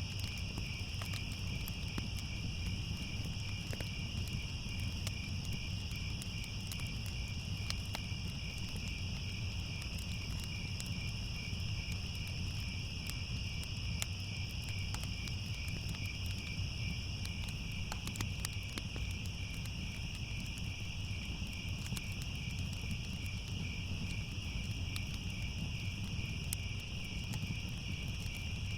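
Crickets chirping steadily in a continuous chorus at two pitches, one of them rapidly pulsing. Under it are scattered small crackles and a low steady rumble, as from a wood fire burning.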